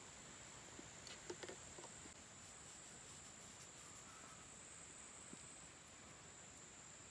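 Near silence: faint outdoor background with a steady high-pitched tone, and a few soft clicks a second or two in.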